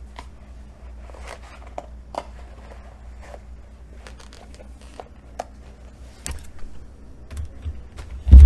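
Parcel being opened and handled: scattered clicks and rustling of packaging, then a loud low thump just before the end, like the box or a hand knocking against the table or microphone.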